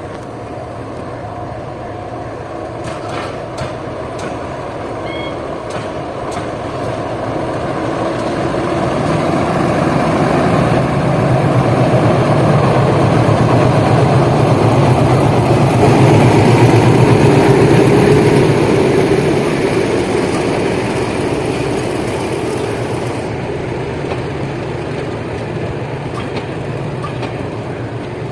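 Indian Railways passenger train passing by, the rumble of its wheels on the rails swelling to a peak midway and then fading.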